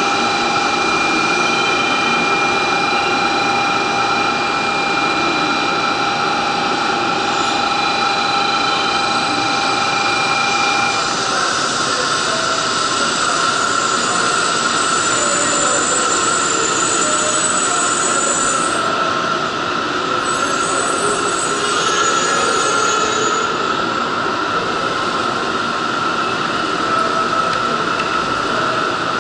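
N700-series Shinkansen train pulling in along the platform and slowing to a stop, a steady running noise with high whines that fade out about a third of the way through. A high squeal rises for a few seconds around the middle.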